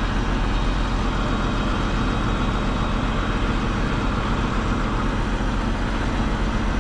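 Heavy diesel truck engine running steadily with a low, even hum.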